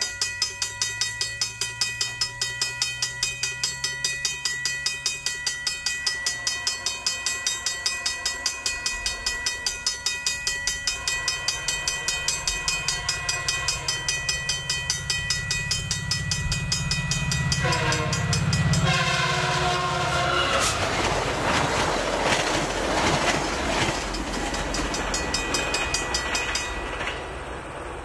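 VIA Rail passenger train led by an EMD F40PH-2 diesel locomotive, running at speed. A low hum with a fast regular pulsing builds as it approaches, the locomotive horn sounds briefly about two-thirds of the way in, and then comes the loud rumble of the locomotive and cars passing, which drops off near the end.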